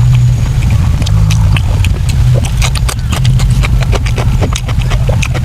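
Close-up chewing and lip-smacking of braised pork intestines: quick, irregular wet clicks over a steady low hum.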